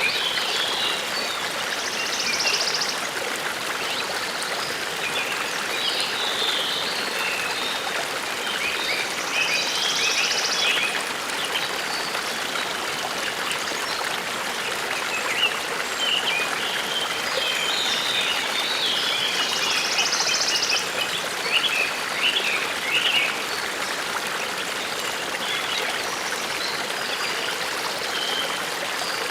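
A forest brook babbling steadily, with birds chirping throughout and a short high trill heard three times.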